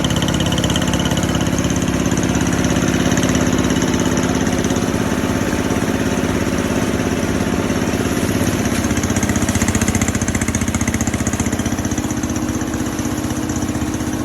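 Rice mill machine running with a steady engine-like drone. Its pitch shifts slightly about eight and a half seconds in.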